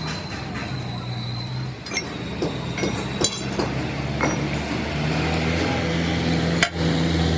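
Scattered metal clinks and taps from tools and parts being handled, over a steady low machine hum.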